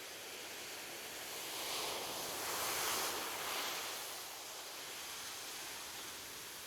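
Ocean surf on a beach: a steady wash of gentle waves, with one wave swelling and breaking about three seconds in, then easing back.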